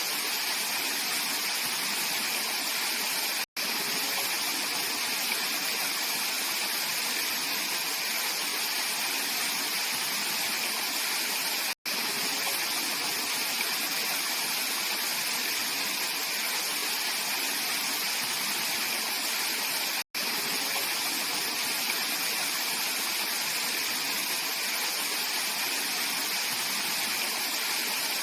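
Clear mountain valley stream rushing and splashing steadily over rocks, a constant hiss of flowing water. It cuts out to silence for an instant three times, evenly spaced.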